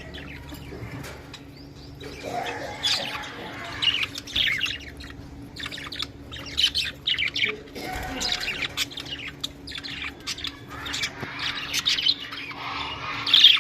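Budgerigars chirping and chattering: a busy, irregular run of short high chirps and squawks, louder near the end.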